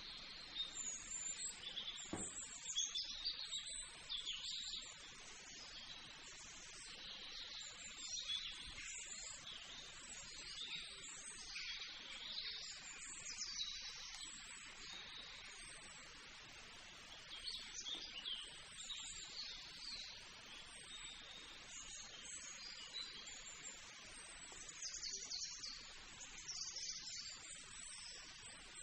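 Small birds chirping, with many short high calls overlapping over a low background hiss.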